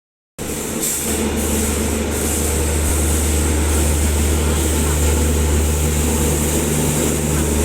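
A train running with a steady low drone and a constant hiss, coming in abruptly about half a second in, with a few short clicks in the first two seconds.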